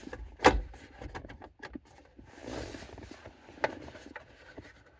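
Steering-column trim cover being handled and set aside: a loud knock about half a second in, a short rustling scrape in the middle, and a sharp click later.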